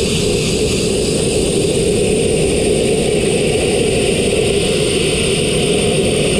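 Abrasive blasting with fine crushed glass: a loud, steady hiss of the blast nozzle over the continuous running of the air compressor's engine.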